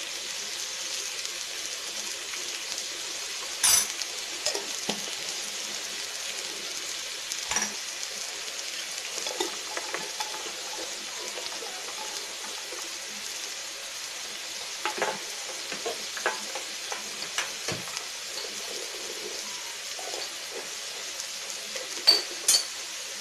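Sliced boiled eggs and onions sizzling steadily in oil on a flat iron dosa tawa. A few sharp clicks of a metal utensil on the griddle break the sizzle now and then.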